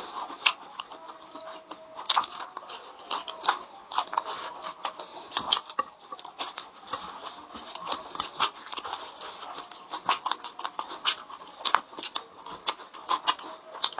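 Close-miked eating: a person chewing and smacking with the mouth, full of irregular sharp wet clicks and crackles.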